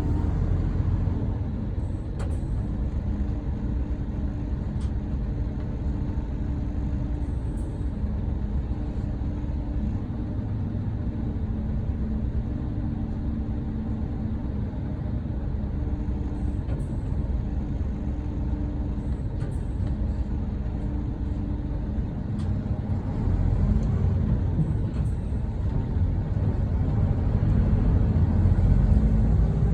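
Hino Selega coach's diesel engine idling steadily, with a few faint short clicks. The engine grows louder over the last few seconds.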